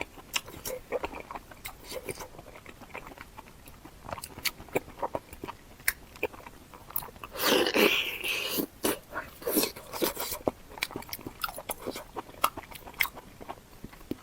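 Close-miked eating: a person biting and chewing, with many short wet mouth clicks and crunches. About seven and a half seconds in comes a louder, longer bite lasting about a second.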